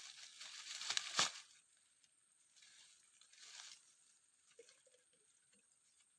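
Dry forest vegetation rustling and crunching as someone moves through it, with a sharp snap about a second in and a softer rustle later.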